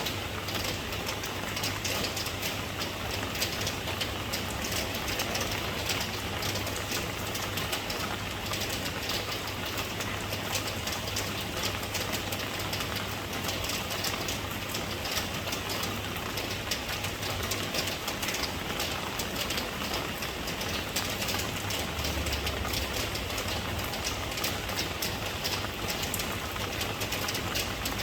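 Steady rain falling, a dense, even patter of drops with a steady low rumble underneath.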